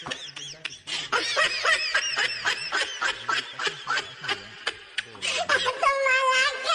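A person laughing hard in quick, repeated breathy bursts. Near the end it turns into one long, high, wavering squeal.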